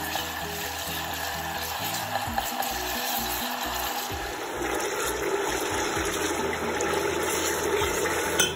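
Tomato purée and onions frying in hot oil in a large stainless steel pot, sizzling steadily while a utensil stirs through them, with background music underneath.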